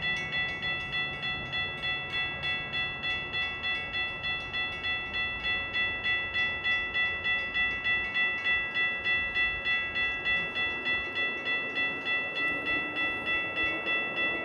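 Railroad crossing bell ringing steadily at about three dings a second, the warning for an approaching train.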